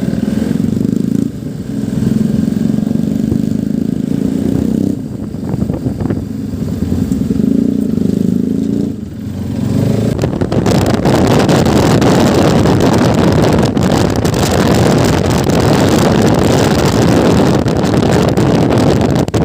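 Motorcycle engine running under way, its note dipping briefly about a second in, around five seconds and around nine seconds. From about ten seconds in, loud wind noise on the microphone covers the engine.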